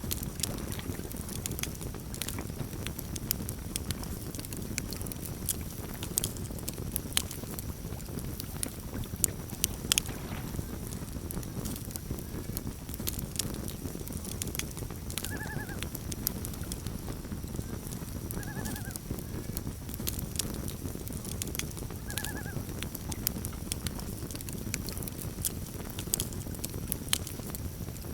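Campfire crackling: a steady run of sharp pops and snaps over a low, even rush of burning. Three short, arched calls from an animal sound about halfway through, a few seconds apart.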